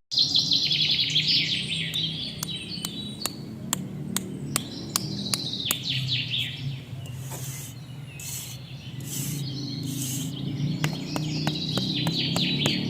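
Small birds chirping in quick, falling series of notes, with many sharp clicks or taps scattered among them over a low steady hum.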